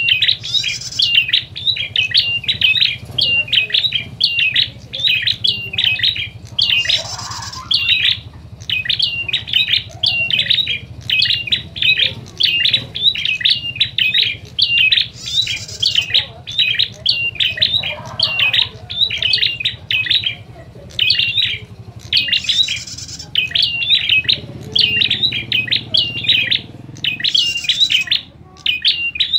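Prinias (prenjak) giving agitated fighting calls: a rapid, unbroken run of sharp chirps, with a higher buzzy trill breaking in about every six to eight seconds. A faint steady hum runs beneath.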